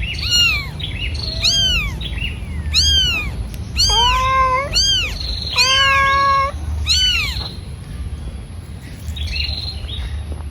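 A cat meowing repeatedly: about seven short, rising-then-falling meows in the first seven seconds, then fainter ones near the end.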